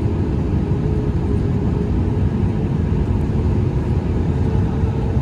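Steady low cabin noise of a Boeing 737 MAX 8, the even rush of its engines and the airflow heard from inside, with a faint steady hum running through it.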